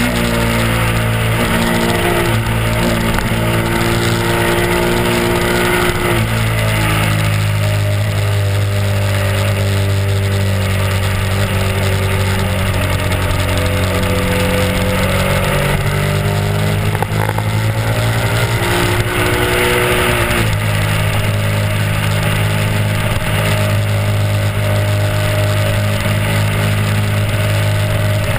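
Honda RC51's 1000 cc V-twin engine running at road speed. Its pitch rises and falls a few times as the throttle changes, over a steady rush of wind and road noise.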